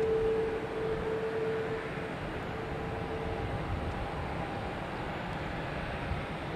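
Jet noise from a landing Airbus A330-300 airliner and its Rolls-Royce Trent 700 engines: a steady rushing sound with a whine that fades out about three and a half seconds in as a higher whine comes in.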